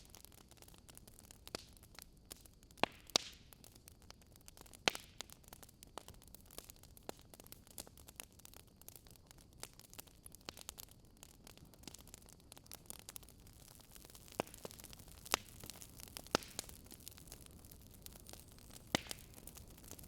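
Wood fire in a fireplace crackling: irregular sharp snaps and pops over a soft, steady hiss.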